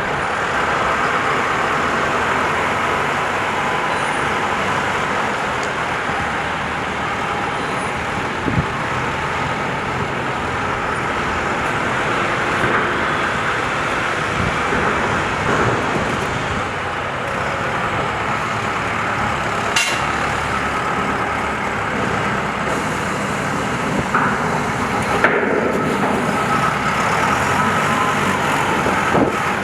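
Self-loading concrete mixer's diesel engine running steadily, with a few short knocks.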